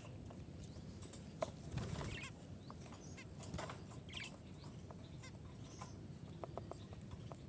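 Several budgerigars chirping together in their morning chorus: many short, overlapping chirps and chatter with small clicks.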